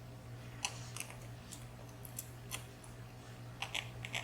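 Light, irregular clicks of tiny lock pins from a dimple lock being handled and flipped over on a hard surface, with a quick cluster of clicks near the end, over a faint steady hum.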